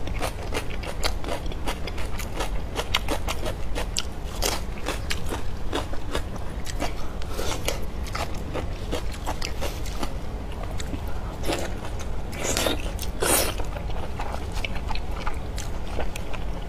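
Close-up eating sounds of braised lamb intestine being bitten and chewed: a steady run of quick, sharp mouth clicks, with two louder, longer wet sounds about two-thirds of the way through.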